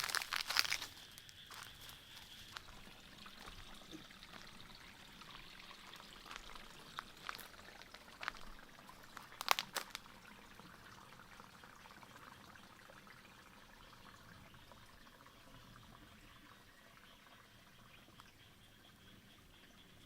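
Faint trickling water, with a few clicks and rustles in the first half.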